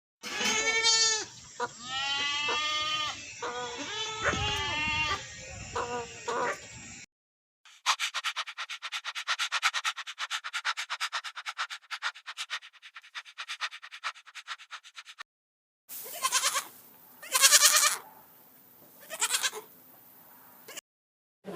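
Several short animal clips spliced together: first a run of short goat bleats, one after another, for about seven seconds. Then comes a fast, even, rattling chatter lasting about seven seconds, and a few short, separate bursts of sound near the end.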